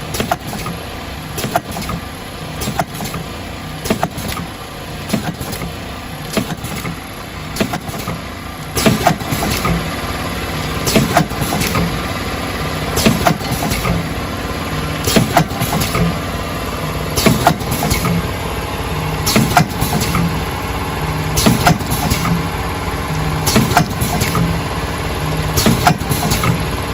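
High-viscosity liquid sachet packaging machine (three-side seal type) running, with a sharp clack about every one to two seconds from its packing cycle over a steady mechanical hum.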